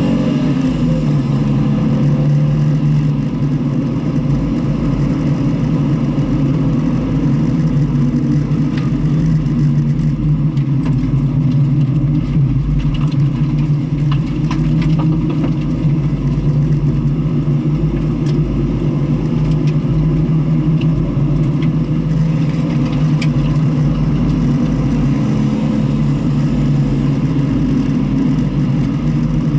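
Car engine running steadily at an even, unchanging pitch, with a few faint clicks in the middle.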